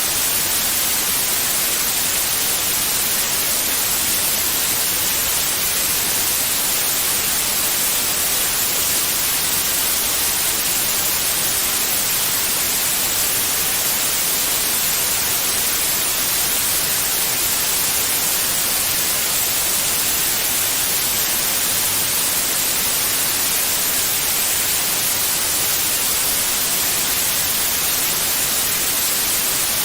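Steady white noise: an even, unbroken hiss, strongest in the treble, played to soothe a baby.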